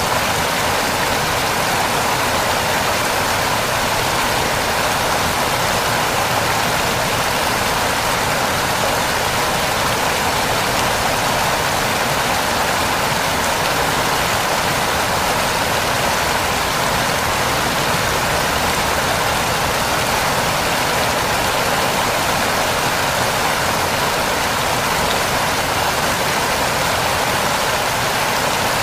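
Waterfall: falling water rushing in a steady, even hiss that never changes.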